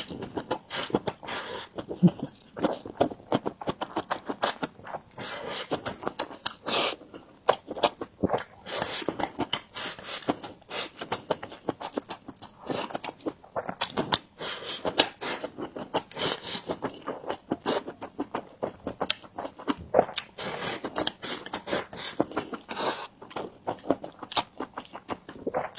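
Chewing and mouth sounds of a person eating: a fast, unbroken run of smacks and clicks.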